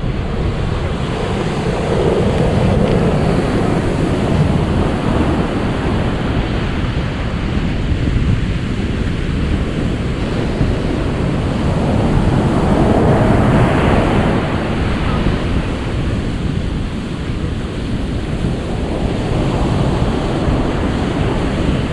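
Ocean surf: a steady rush of waves washing ashore that swells and eases every several seconds.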